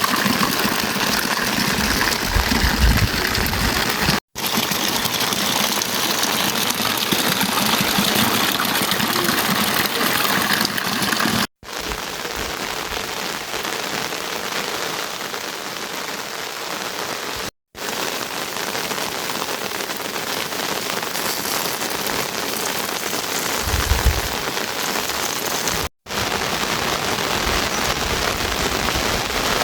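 Steady rain falling hard, a dense even hiss. It cuts out for a split second four times, and there is a brief low rumble near the end.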